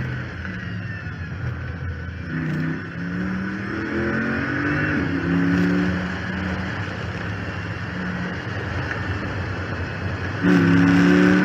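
2014 Chrysler 300 SRT8's 6.4-litre HEMI V8 on track, heard from the hood scoop: running at part throttle with the revs climbing a few times, then going suddenly louder under full throttle near the end.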